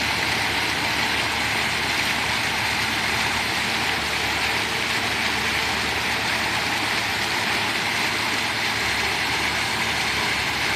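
Water pouring steadily down an artificial rock waterfall, a constant rushing splash.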